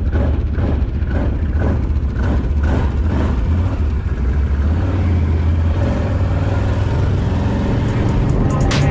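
Dirt bike engine running steadily while riding, a low drone with a regular pulsing of about three beats a second for the first few seconds.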